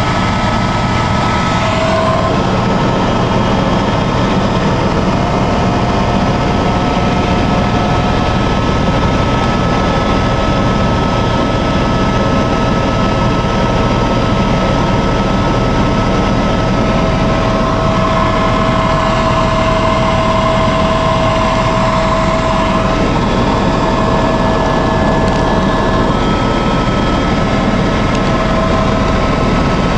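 Helicopter in flight heard from inside the cabin: a steady engine and rotor drone with a high, even turbine whine over it.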